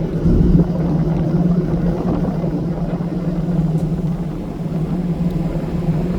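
Steady low drone of a car ferry's engines heard on board, a constant hum with rumbling noise underneath.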